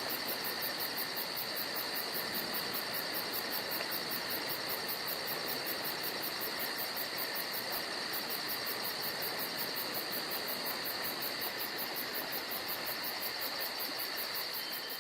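Chorus of crickets and other insects in a forest: a steady high-pitched trilling with a rapid, even pulsing very high chirp over it.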